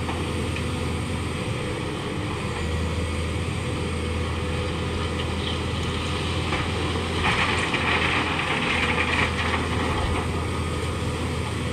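Heavy diesel engine running steadily with a deep hum. A louder hissing noise rises over it for a couple of seconds past the middle.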